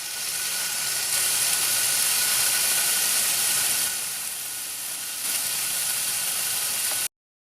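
Slices of beef tongue sizzling on a hot grill, a steady hiss that eases for about a second midway and then picks up again.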